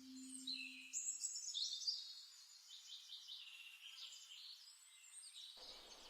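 Faint songbirds chirping and twittering in a cluster of quick high calls, thinning to a few scattered chirps. A low held musical tone dies away at the very start.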